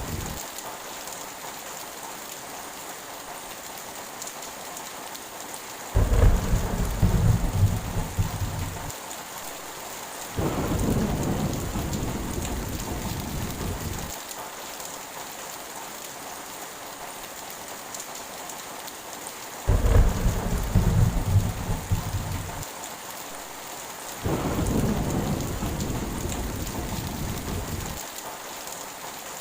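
Heavy rain falling steadily, with thunder breaking over it four times in two similar pairs. Each pair is a sudden loud clap followed by a longer, softer rumble.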